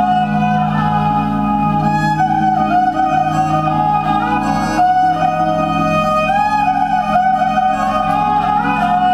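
Erhu playing a slow melody with frequent sliding pitch bends, over a steady, sustained low accompaniment.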